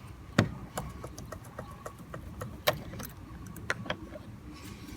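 Irregular sharp clicks and clinks of a hand tool on the negative battery terminal as it is loosened for removal, the loudest about half a second, under three seconds and about four seconds in.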